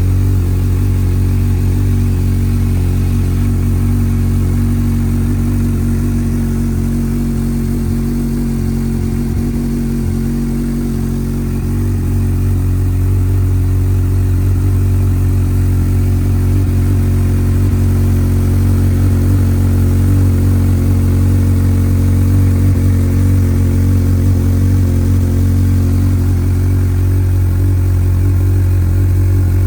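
Honda CBF1000's inline-four engine idling steadily, with a slight wavering in its note partway through.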